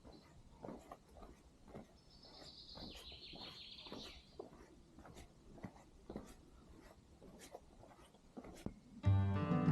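A bird sings one buzzy, slightly falling trill lasting about two and a half seconds, over faint irregular soft ticks. Acoustic guitar music comes in loudly near the end.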